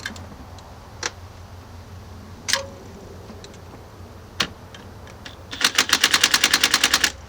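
Ratchet wrench on a socket extension, clicking rapidly for about a second and a half near the end, after a few separate sharp metal clicks and taps.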